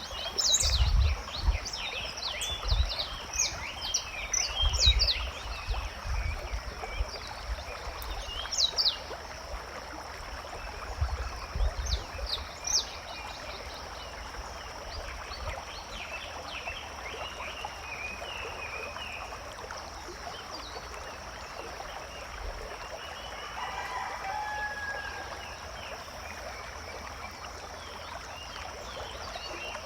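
Forest ambience: birds chirping in short, quick downward-sweeping calls, thickest in the first dozen seconds, over a steady high-pitched hum. There are low rumbles in the first half and one longer, lower call about two-thirds of the way through.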